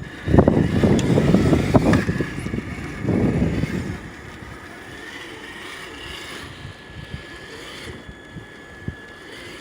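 Wind buffeting the microphone in heavy gusts for the first four seconds, then easing to a lighter steady rush. A faint thin steady whine runs underneath, from the RC truck's electric motor and transmission driving.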